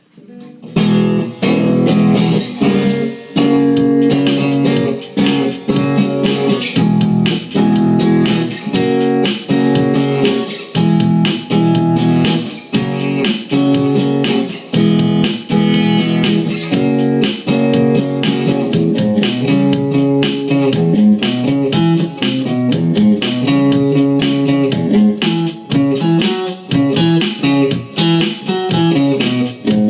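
Guitar playing a blues tune, plucked notes and chords in a steady rhythm, coming in fully about a second in.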